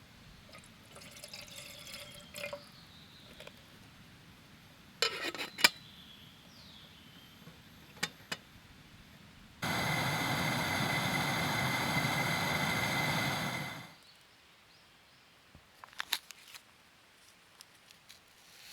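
Liquid poured in a steady stream for about four seconds, starting abruptly and tailing off. Light clinks and knocks of cookware come before it, and scattered small clicks after it.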